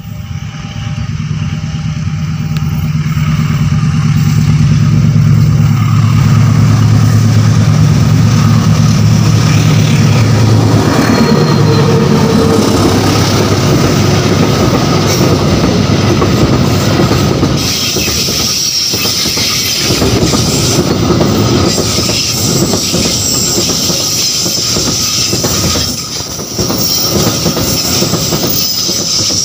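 A diesel locomotive hauling an empty steel-coil freight train passes close by. Its engine drone builds over the first few seconds and gives way at about ten seconds to the rumble and clickety-clack of the empty wagons rolling over the rail joints.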